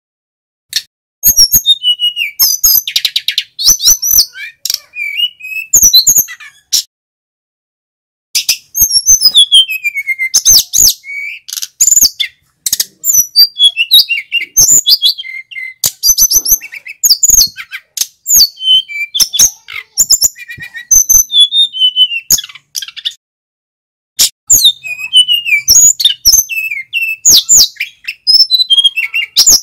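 Male sikatan gunung flycatcher singing loudly: fast, varied phrases of high chirps, trills and whistles, broken by a few short pauses.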